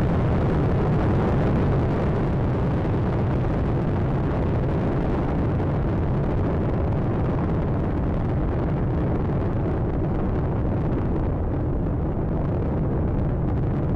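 Space Shuttle Atlantis climbing after liftoff: the steady, dense low rumble of its rocket exhaust from the solid rocket boosters and main engines, with the higher hiss thinning a little near the end.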